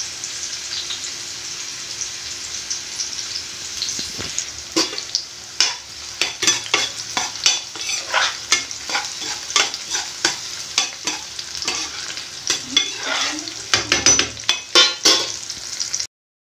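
Sliced onions with ginger and garlic sizzling in hot oil in a kadai, at the sautéing stage. From about four seconds in they are stirred, and the utensil scrapes and taps against the pan many times over the steady sizzle. The sound cuts off suddenly near the end.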